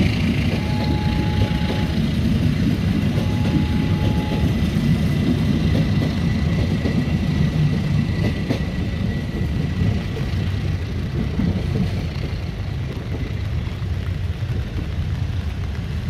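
Passenger train coaches rolling past on the rails, a steady low rumble of wheels on track that fades gradually from about ten seconds in as the last car moves away. A thin, steady high whine runs through the first ten seconds.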